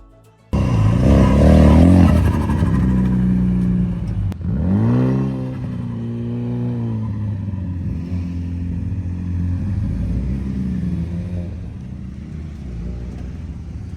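Car engine starts abruptly about half a second in, accelerating and revving. Its pitch sweeps sharply up about four seconds in, holds briefly, drops back near seven seconds, then settles into steadier running.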